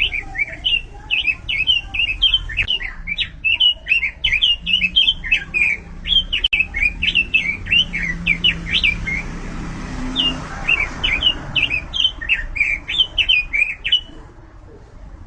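Pekin robin (red-billed leiothrix) singing a fast, continuous warbling song of short, quick chirping notes, with a brief break about nine seconds in; the song stops about a second before the end.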